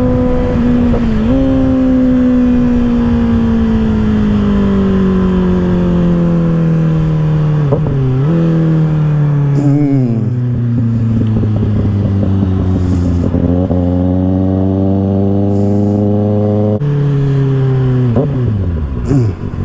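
2024 Kawasaki ZX-6R's inline-four through an M4 aftermarket exhaust, heard on the move. The engine note winds down slowly as the bike slows, with brief dips in pitch at the gear changes and a jump up in pitch a few seconds before the end as it is shifted down. Wind rush runs underneath.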